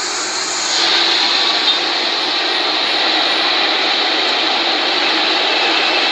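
Jet airliner engines running in a loud, steady noise. Just under a second in, the sound changes suddenly and grows slightly louder, then holds steady.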